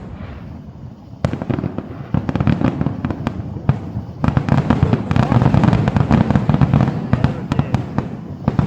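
Fireworks going off in a rapid, overlapping run of booms and sharp crackling bangs, sparse at first and then dense and nearly continuous from about four seconds in.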